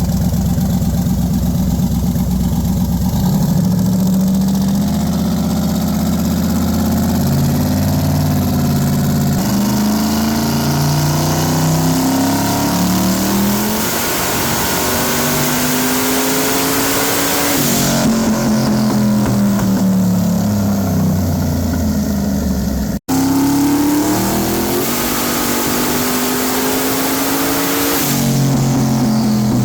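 Twin-turbocharged Camaro's engine under load on a chassis dyno during tuning, pulling long and slow up through the revs and dropping back down several times. There is an abrupt cut about three-quarters of the way through.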